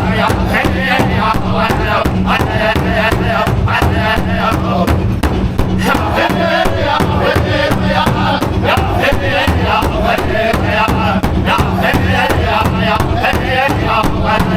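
Powwow drum group singing: several voices chanting high, wavering lines over a big drum struck in a steady, fast beat.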